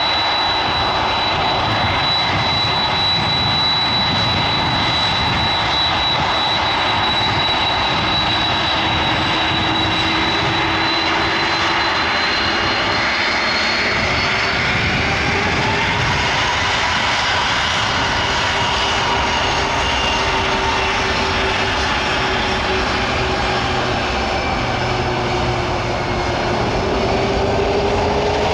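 Jet airliner's engines at takeoff power: a loud, steady roar with whining tones that slowly shift in pitch as the aircraft passes.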